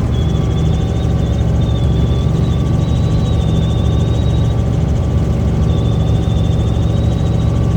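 Helicopter running: a steady low drone from engine and rotor, with a thin high whine wavering above it that fades out in the middle and returns near the end.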